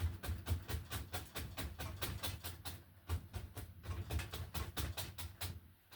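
A stiff bristle brush tapping paint onto a stretched canvas: rapid dull taps, several a second, with a short pause about halfway through.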